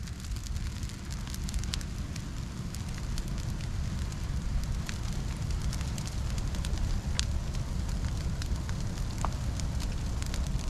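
Large brush-and-stump fire burning, with a steady low rumble and many scattered sharp crackles and pops.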